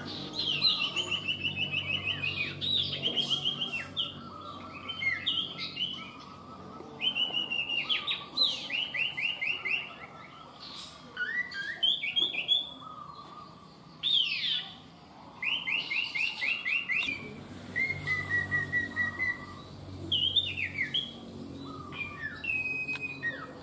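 Common iora (sirtu) singing: repeated quick trills of evenly spaced notes, each a second or two long, between shorter whistled and chirped calls.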